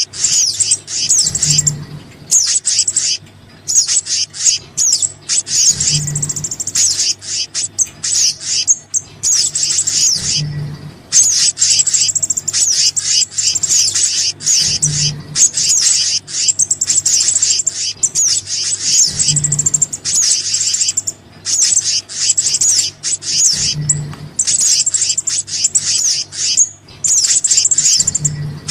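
Bird-lure recording of small songbird calls: dense, high-pitched chirps and fast trills in quick runs with brief pauses. A short low thump recurs about every four and a half seconds under the calls, over a faint steady hum.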